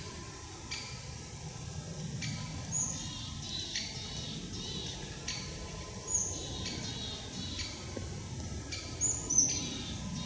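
Small birds chirping in the forest: short high falling call notes about three seconds in, about six seconds in and twice close together near the end, over steady low background noise.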